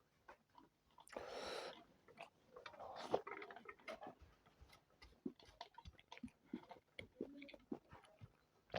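Close-miked chewing of spicy chicken biryani, with soft wet mouth smacks and clicks and a short breathy burst about a second in.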